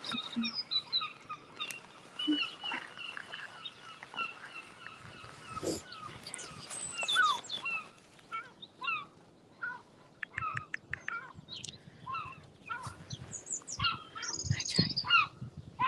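Wild birds singing and chirping, many short song phrases and calls overlapping.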